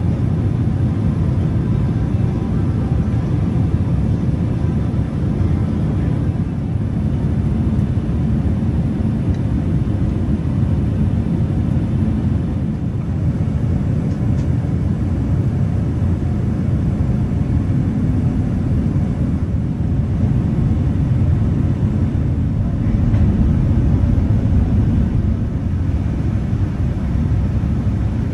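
Steady low rumble of cabin noise inside a Boeing 787-10 airliner in flight: engine and airflow noise heard from a passenger seat, unchanging throughout.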